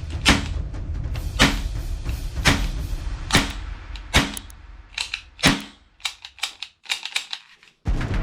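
Toy gun firing single sharp shots about once a second, then a quicker run of lighter clicks near the end, over background music.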